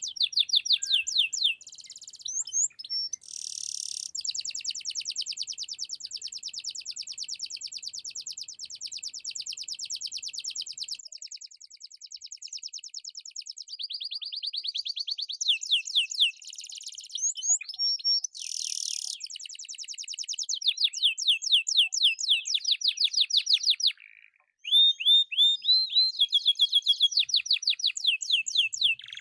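Domestic canary in full song, a long run of fast rolling trills and rapidly repeated notes that change from phrase to phrase, with a brief break about three quarters through.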